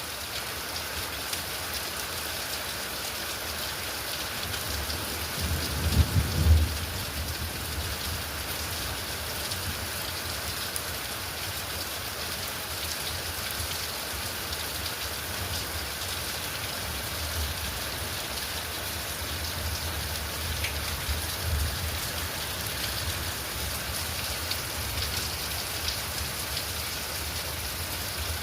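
Steady rainfall pattering down during a thunderstorm. A short low rumble of thunder swells about six seconds in, and fainter low rumbles come later.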